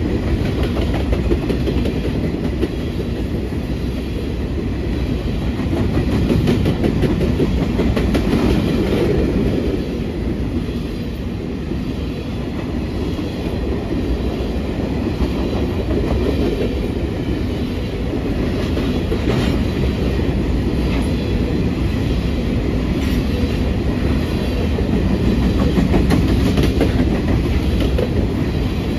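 Covered hopper cars of a freight train rolling past: steady rumble of steel wheels on rail, with repeated clacks as the wheels cross rail joints.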